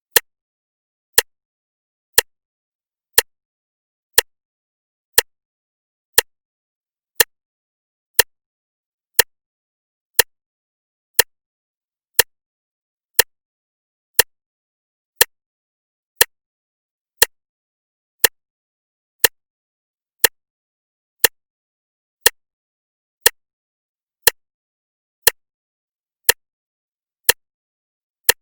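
Clock ticking once a second: sharp, evenly spaced ticks with nothing else heard between them.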